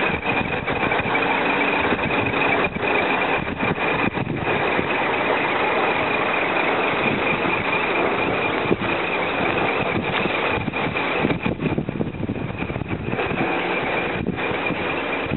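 Scania Irizar Century coach's engine running steadily.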